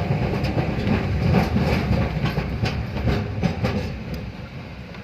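A moving vehicle heard from inside: a heavy low rumble with frequent rattles and knocks, as on a rough road, easing off near the end.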